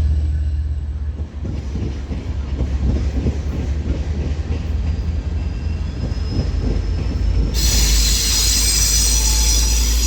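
Train rolling by with a heavy low rumble and rhythmic wheel clatter. About three-quarters of the way in, a high metallic wheel squeal sets in suddenly and continues.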